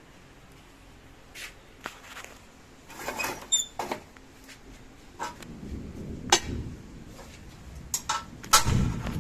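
Irregular knocks and clanks, one about a third of the way in with a short high ring. A low rumble builds in the second half, under the loudest knocks near the end.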